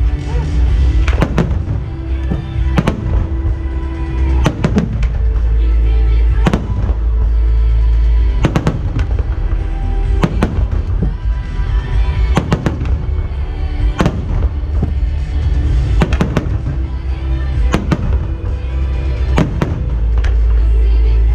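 Fireworks shells bursting in sharp bangs, mostly in close pairs about every two seconds, over loud show music with a heavy low rumble.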